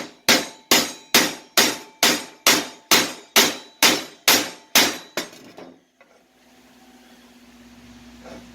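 Hand hammer striking steel stock in a steady run of blows, about two a second, each with a short metallic ring; the hammering stops about six seconds in, leaving a faint low hum.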